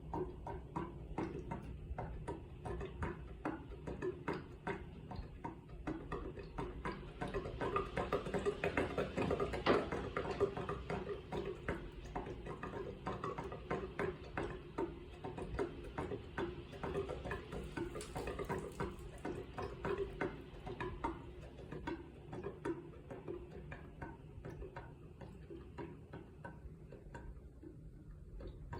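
Mitsubishi Heavy Industries air conditioner making an abnormal water-dripping sound: rapid, irregular ticking clicks over the unit's steady running hum, a little louder around the middle.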